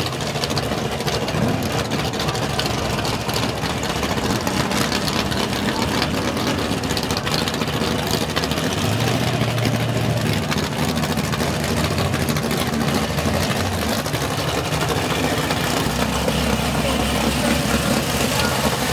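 Engines of big-rim Chevrolet 'donk' drag cars idling at the starting line, a steady low rumble that rises a little now and then, with crowd noise behind.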